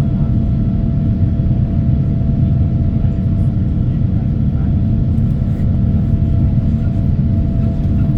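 Cabin noise aboard a Boeing 787-9 airliner: a steady low rumble of engine and airflow with a constant hum above it.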